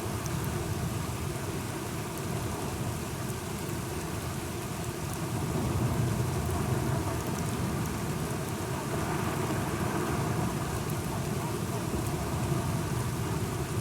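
Steady rain falling, with a low rumble of thunder swelling up about halfway through and slowly fading.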